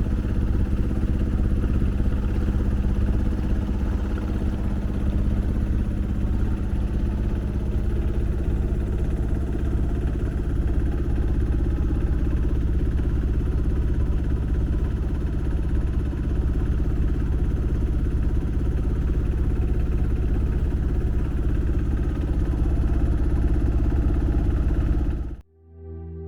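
A sailboat's engine running steadily under way, a low rumble with a steady hum. It cuts off abruptly near the end, and soft sustained tones like a singing bowl follow.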